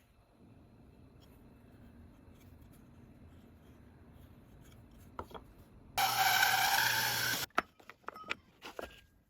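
Wood being worked by hand with a tool: faint scraping for the first six seconds, then a louder rough stretch of about a second and a half, followed by a few sharp clicks.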